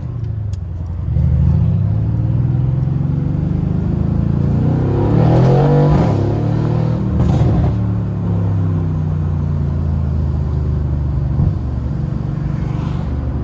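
Mercedes-AMG C63's 4.0-litre twin-turbo V8 under way: the engine note climbs in pitch under acceleration from about four seconds in, drops back sharply about six seconds in, then runs at a steady lower drone.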